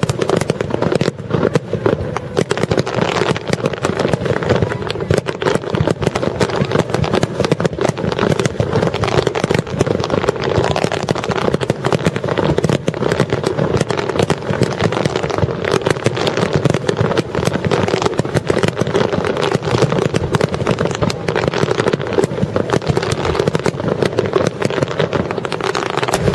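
Starmine barrage of aerial firework shells bursting in rapid, continuous succession: a dense stream of bangs and crackles with no pause, beginning suddenly.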